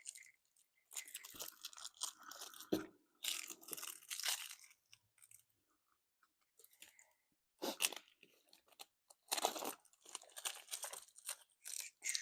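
Plastic packaging of a motorcycle battery's acid pack being torn open and crinkled by hand, in irregular bursts with a quiet pause in the middle.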